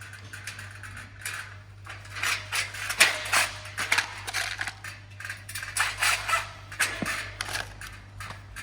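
Irregular clinks and knocks of metal parts and tools being handled during greenhouse frame assembly, over a steady low hum.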